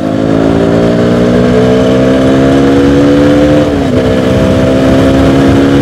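KTM 200 Duke's single-cylinder engine pulling under acceleration, its pitch climbing steadily. The pitch drops briefly about four seconds in at an upshift, then climbs again.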